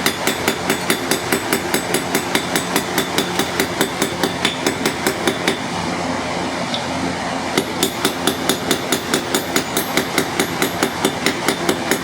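Small hand hammer striking a metal leaf on an anvil in quick, even blows, about three to four a second, texturing the leaf's sides; the blows stop for a second or two about halfway through, then carry on.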